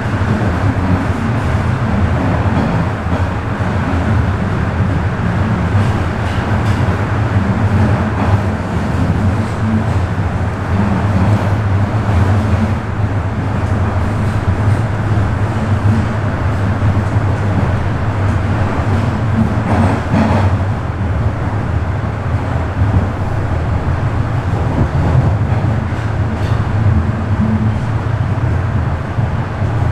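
Bombardier Toronto Rocket subway train running between stations: a steady low rumble and hum from wheels on rail and traction motors, with a few faint clicks.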